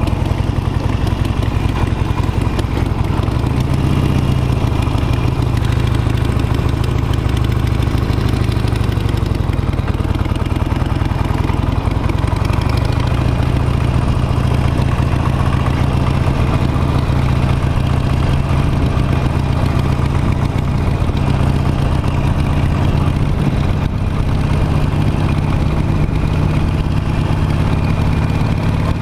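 Harley-Davidson Nightster's Revolution Max V-twin running steadily at low revs, its pitch rising slightly a few seconds in and again about halfway.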